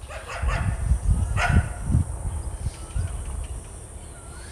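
A dog barks once, about a second and a half in, followed by a couple of faint short chirps, over low rumbling on the microphone.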